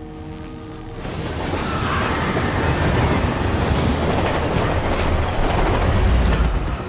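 Passenger train running at speed, a loud rumble and rail clatter that swells about a second in, mixed with the film score. It cuts down abruptly at the end.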